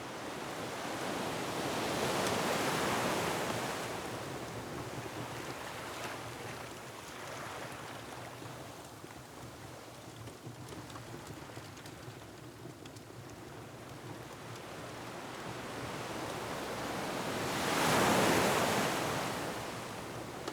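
Ocean waves surging and breaking against a rocky shore, over a steady wash of wind. One big swell builds about two seconds in, and a louder one comes near the end.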